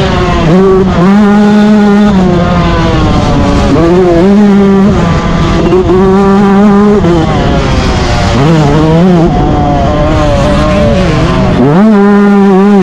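Yamaha YZ125 two-stroke motocross engine revving hard under racing throttle: its pitch climbs sharply and holds, then drops off, over and over as the rider opens and closes the throttle and works through the gears.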